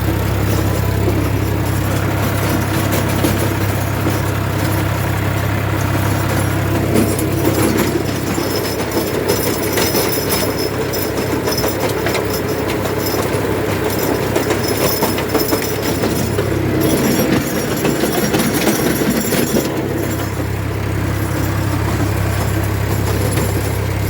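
Sonalika tractor's diesel engine running steadily while driving a Lancer rotary tiller, with a dense mechanical clatter over the engine note. The low engine hum drops back for about three seconds partway through, then returns.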